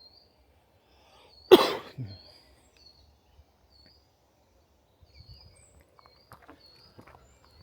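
A man coughs about a second and a half in, a loud cough with a smaller second one right after it. Small birds chirp with short high notes throughout, and footsteps on the woodland trail start softly in the second half.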